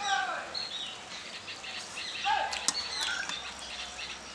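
Birds calling and chirping: two falling calls, one at the start and one a little past two seconds in, over scattered high chirps, with a few sharp clicks.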